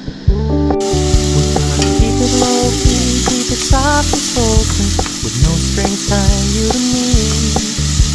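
Chopped onion sizzling in hot olive oil in a pan. The sizzle starts suddenly about a second in, under background music with guitar and singing.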